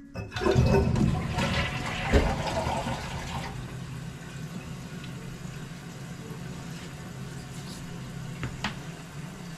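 Toilet flushing: a loud rush of water for about three seconds, then settling into a steady quieter run of water as the tank refills.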